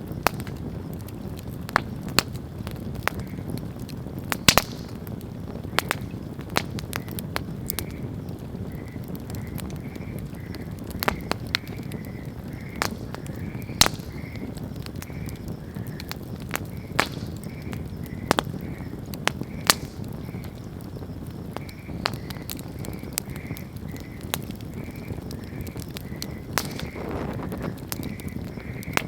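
Wood campfire burning, a steady low rumble of flames with sharp, irregular crackles and pops from the burning wood. A faint short chirp repeats about twice a second behind it from about a third of the way in.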